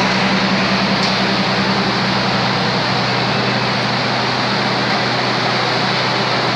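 Steady mechanical drone of an idling diesel passenger train: a constant low hum under an even hiss, with no change in pitch or level.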